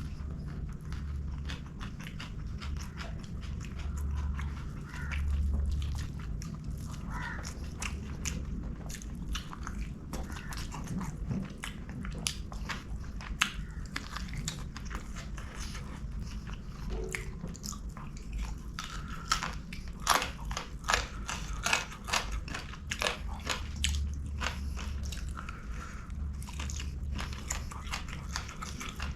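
Close-miked eating sounds of a person chewing and biting into a meal of string hoppers and curries, with many crisp crunchy clicks that come thickest about two-thirds of the way through, over a low steady hum.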